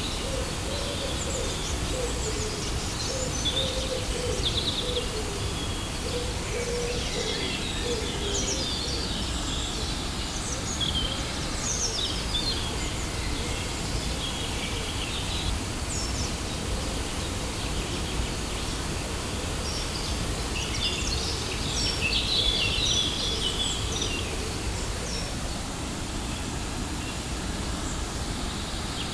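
Waterfall rushing steadily, with many birds chirping and calling over it. A low wavering call sounds during the first several seconds.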